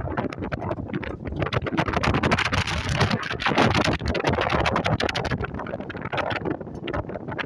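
Strong, gusty wind buffeting the microphone, mixed with the wash of breaking waves on a sandy beach; it swells loudest a few seconds in.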